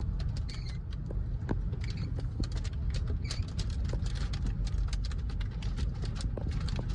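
Scattered storm precipitation pattering irregularly on a vehicle, many sharp taps a second over a steady low rumble of the car and wind.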